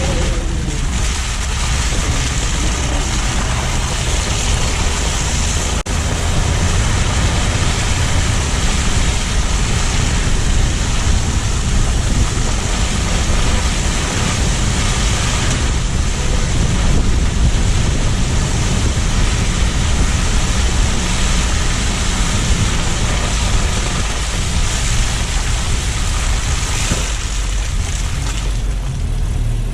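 A car driving on streets after a snowstorm, heard through a low-mounted GoPro as steady road and tyre noise with wind buffeting the microphone and a low rumble underneath. There is a very brief dropout about six seconds in.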